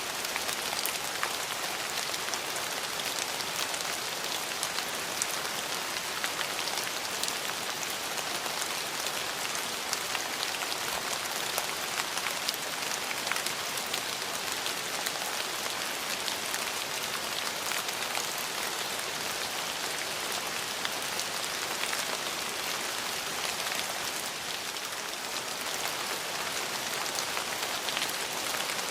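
Steady rain falling on a hard surface, an even hiss dotted with many small sharp drop splashes.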